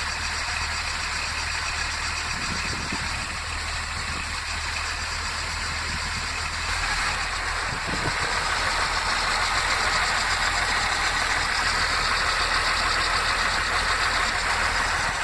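Deutz six-cylinder diesel engine running steadily, growing louder about seven seconds in.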